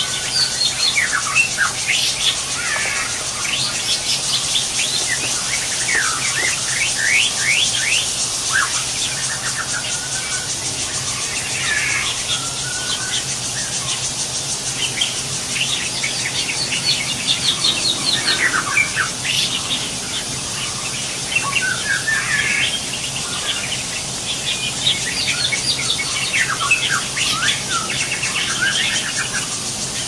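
Birds chirping and squealing in quick clusters of high calls every few seconds, over a steady high hiss.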